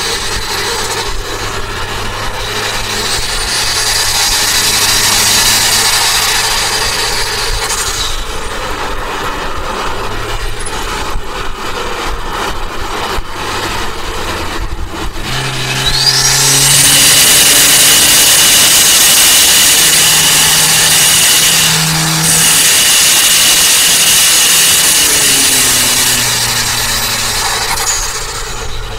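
Turbocharged Toyota Avanza engine pulling under load, its pitch stepping up about halfway through as a high turbo whistle rises and then holds. The whistle breaks off briefly and comes back, and the engine settles lower near the end.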